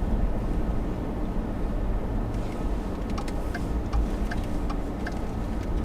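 Inside a car's cabin, a turn signal ticking in an even rhythm, starting about two seconds in, over the steady low drone of the engine and road noise.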